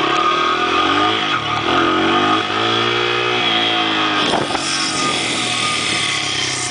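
Honda CRF80 dirt bike's single-cylinder four-stroke engine running under way, its revs rising and falling several times.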